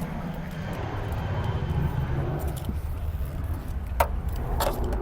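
Steady low rumble with a few short, sharp clicks about four seconds in.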